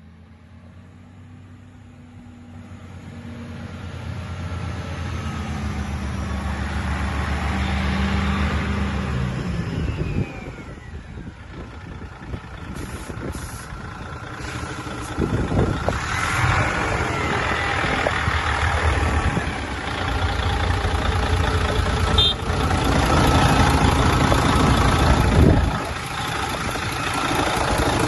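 Mercedes-Benz 4140 8x4 truck's V6 diesel engine running, its sound building over the first several seconds, dropping off sharply about ten seconds in, then picking up again and dipping once more near the end.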